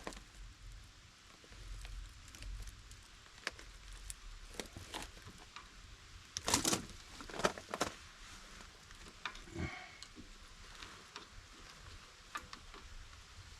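Scattered light clicks and knocks of hand tools and metal brake parts being handled, with a louder cluster of knocks about six to eight seconds in.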